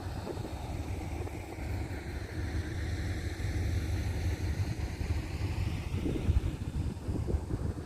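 A vehicle running with a steady low rumble, with a whooshing wash above it that slowly shifts in pitch and a few brief knocks about six seconds in.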